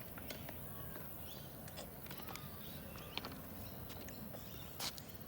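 Birds chirping faintly in short scattered calls over a steady low background rumble, with a few light clicks, the sharpest near the end.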